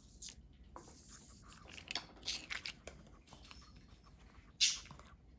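Packaging being handled and torn or cut open: scattered small clicks and rustles, with one louder tearing rustle about four and a half seconds in.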